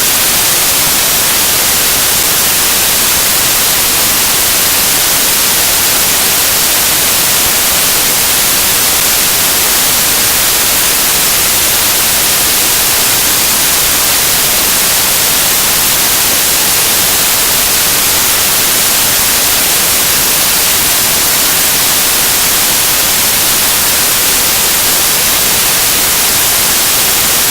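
Loud, steady static hiss like white noise, with no speech under it, cutting in and out abruptly: a burst of signal noise replacing the audio track.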